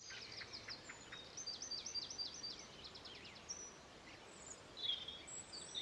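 Faint birdsong: quick runs of high chirping notes in the first few seconds, then scattered single calls.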